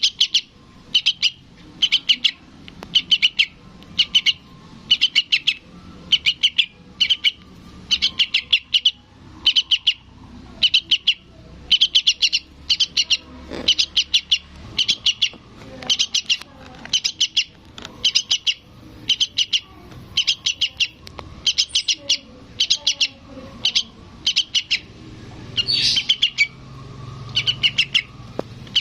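Fledgling yellow-vented bulbul (trucukan) giving begging calls to its parent: short bursts of rapid, high chirps, repeated about once a second.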